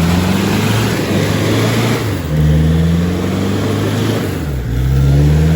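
Off-road 4x4's engine revving in surges while being rocked in deep mud: the revs climb about two seconds in, fall away briefly near the end, then climb again.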